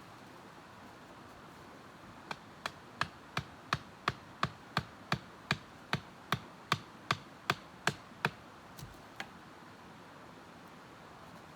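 Repeated blows of a tool striking, a steady run of about seventeen sharp knocks, a little under three a second, ending with two weaker knocks.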